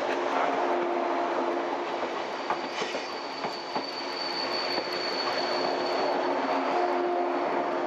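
Electric limited-express train running on the rails, a steady rumble with held whining tones, and a thin high squeal that comes in about three seconds in and holds for a few seconds.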